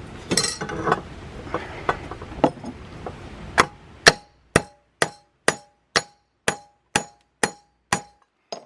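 Scattered clicks and clanks of metal tools being handled, then a hammer striking metal about ten times in a steady rhythm of roughly two blows a second, each blow ringing briefly.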